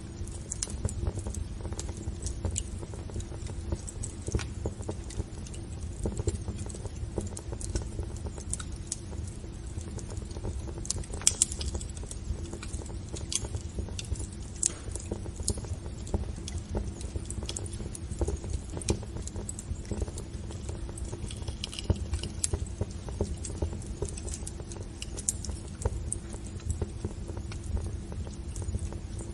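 Wood fire burning in a fireplace, crackling with irregular sharp pops over a low rumble of flames, with a faint steady low hum underneath.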